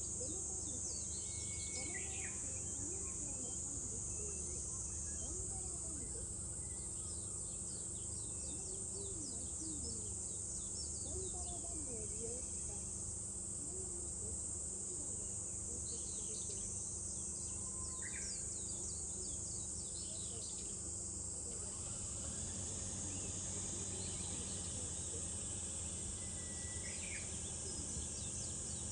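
Summer cicadas droning in a continuous high buzz, with scattered short bird chirps and whistles over a low steady rumble of water.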